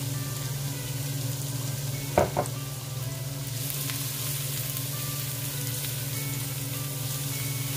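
Minced garlic sizzling in hot oil in a wok, stirred and scraped with a silicone spatula. Two quick knocks come about two seconds in.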